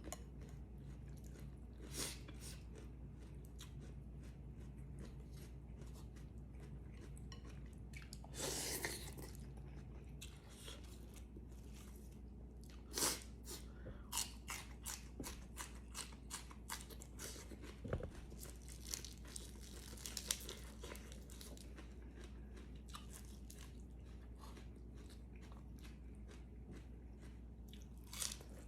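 A person chewing and crunching mouthfuls of food close to the microphone, with many short wet clicks and smacks and one longer noisy burst about eight seconds in, over a steady low hum.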